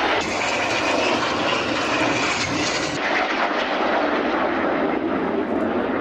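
BAE Hawk T1 jets flying past, their engine noise loud and steady.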